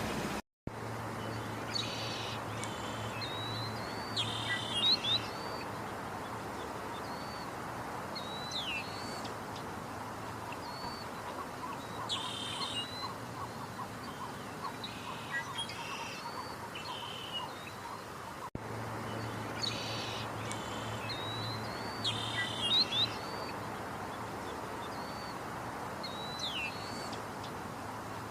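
Birds calling: short chirps and quick whistled glides at intervals over a steady background hiss. The same stretch of calls starts over about 18 seconds in.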